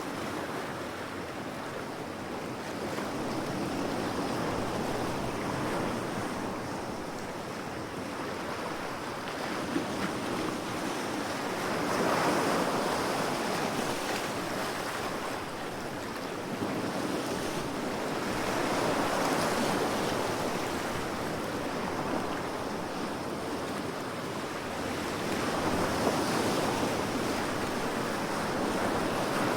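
Ocean waves washing onto the shore in a steady rush, swelling louder about every seven seconds as each wave breaks.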